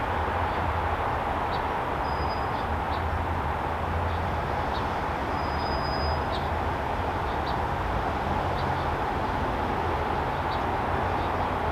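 Steady backyard ambient noise: a constant low roar with no change in level, with faint, short, high chirps scattered through it.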